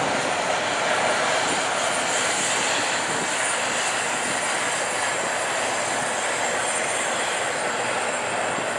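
Union Pacific double-stack intermodal freight train rolling away: a steady rush of steel wheels on rail that slowly fades, with a faint high whine over it.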